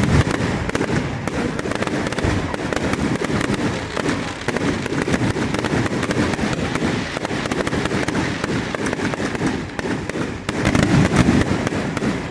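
Aerial fireworks going off in quick succession: many overlapping bangs and crackles, growing louder and heavier about ten and a half seconds in.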